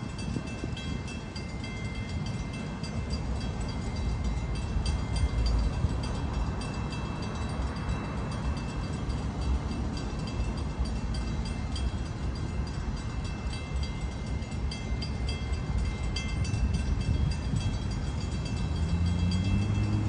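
A train rumbles in the distance and slowly grows louder, with a steady high ringing held over it. Near the end a low engine note sets in and rises in pitch.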